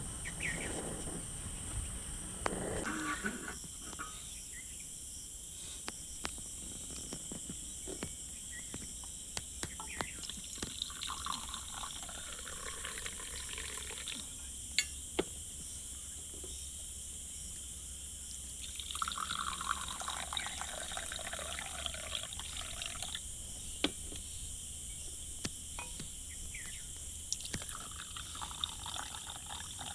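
Water bubbling and trickling in spells of a few seconds, with scattered sharp ticks, typical of a pot of tea boiling over a fire.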